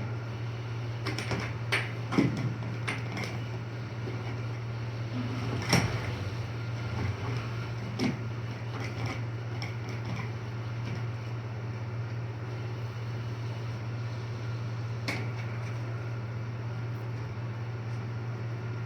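Steady low hum of an air hockey table's blower, with scattered sharp clacks of the puck and mallets striking. The clacks bunch in the first ten seconds, the loudest about six seconds in, with one more about fifteen seconds in.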